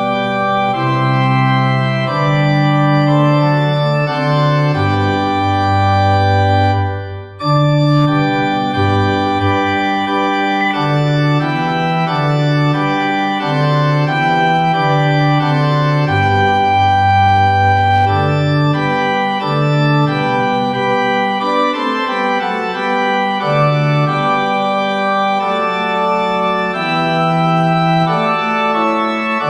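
Organ playing a hymn tune in slow, sustained chords, with a brief break between phrases about seven seconds in.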